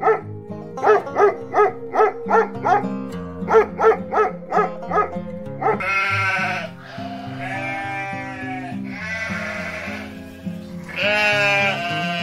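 A pug gives a quick run of short, high barks, about three a second with a brief pause in the middle. Then goats bleat four times in long, wavering calls. Background music plays throughout.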